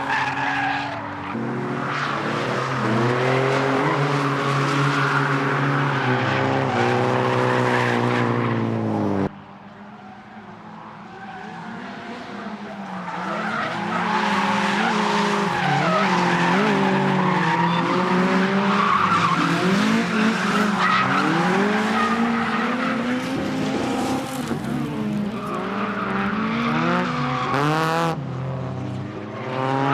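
Drift cars revving hard on and off the throttle, with tyre squeal as they slide through a corner. The sound cuts off sharply about nine seconds in, stays quieter for a few seconds, then builds back to loud revving.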